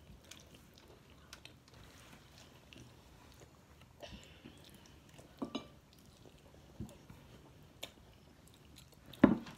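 Quiet eating sounds of hot chicken wings being chewed and picked apart by hand, with small scattered clicks and mouth noises. A single sharp thump comes near the end and is the loudest sound.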